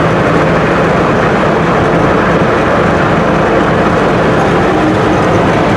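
Steady engine drone and road noise inside a pickup truck's cab while cruising.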